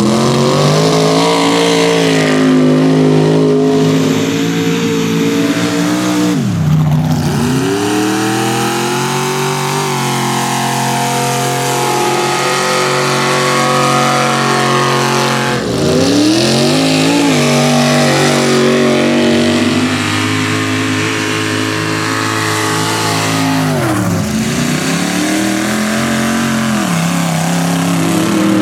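Mega mud truck engine running loud at high revs. Its pitch dips sharply and climbs straight back three times, about a third of the way in, just past halfway and near the end.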